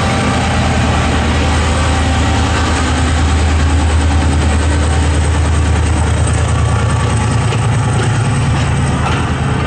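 Diesel engine of a stopped passenger train idling steadily with a deep, even hum.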